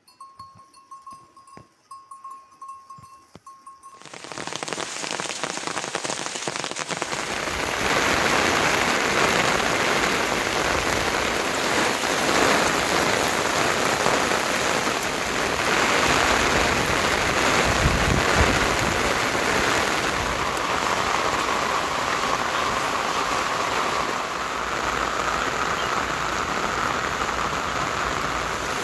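Heavy rain pouring down. After a quiet start with a faint steady tone and a few ticks, it comes in about four seconds in and builds to a steady downpour a few seconds later.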